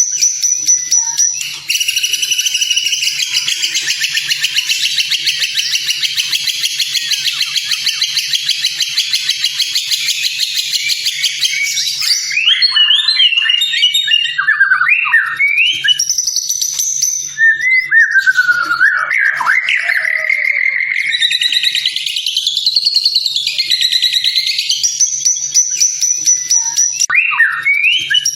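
White-rumped shama (murai batu) singing. It opens with a long, rapid rattling trill lasting about ten seconds, then moves into varied whistled phrases with rising and falling glides.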